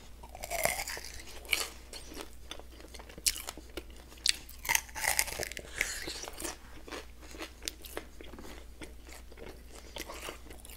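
Close-up sounds of a person biting and chewing chicken wings coated in peanut butter and jam: irregular wet smacks and clicks with crunching, and a few louder bites.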